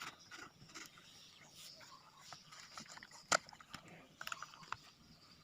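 Faint clicks and scrapes of a fuel container and cap being handled while petrol is readied for a brush cutter, with one sharper click a little past three seconds in.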